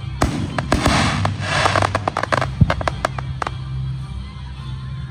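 Aerial fireworks crackling and popping in a dense rush of sharp cracks for about two seconds, then a few single bangs, over music with a deep bass line.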